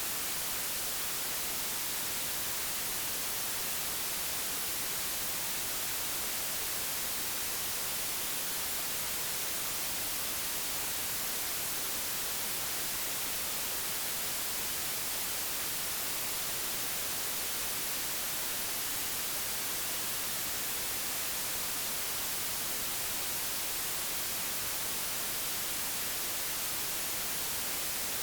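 Digitally generated white noise: a steady, even hiss that does not change.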